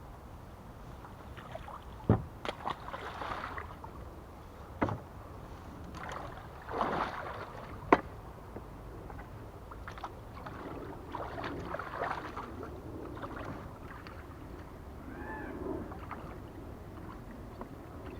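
Hollow knocks and bumps against a small two-man boat's hull, mixed with short bursts of water sloshing and splashing, while the pontoons are being drained of trapped water.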